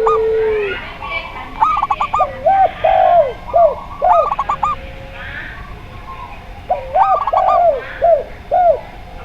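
Captive doves calling together: zebra dove, Javanese spotted dove and pelung-type dove. A long held coo ends under a second in, then two phrases of short arched cooing notes follow, one after about a second and one after about seven seconds.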